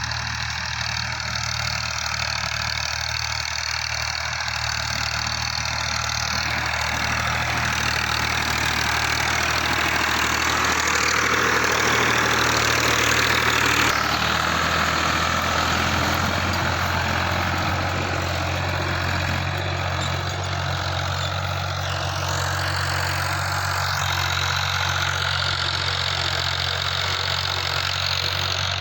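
Tractor's diesel engine running steadily, getting louder toward the middle and then easing back.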